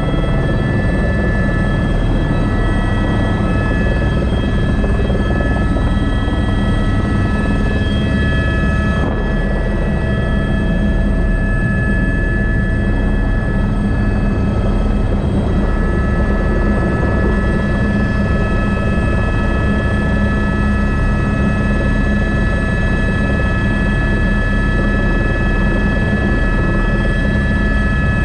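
Airbus AS350B3 (H125) helicopter running steadily: a constant turbine whine over the steady drone of the rotor.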